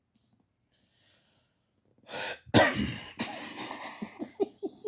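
A man coughs and clears his throat, one loud harsh burst about halfway through after a soft intake of breath. Near the end it turns into a quick run of short chuckles.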